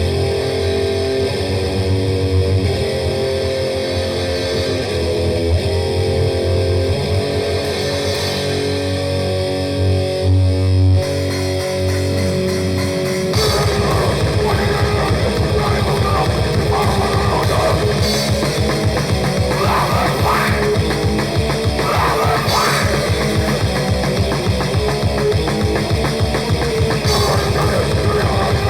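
Grindcore music: a distorted electric guitar riff with held chords over bass, then about 13 seconds in the drums come in with a fast, dense beat under the guitars and bass.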